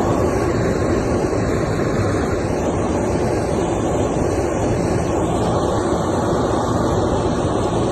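Aircraft landing: a steady, loud rushing roar of engine and air noise.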